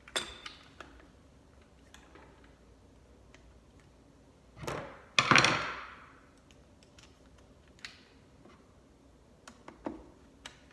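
Refitting the small electrical cover plate on the bottom of a garbage disposal: scattered clicks and taps of handling, with one louder noisy scrape about halfway through lasting a second or so, and a few knocks near the end.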